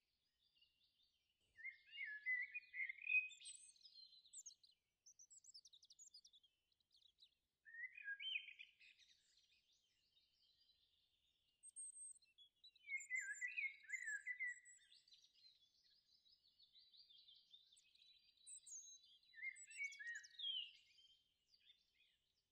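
Faint birdsong: short chirping phrases every few seconds, with quieter high chirps between them.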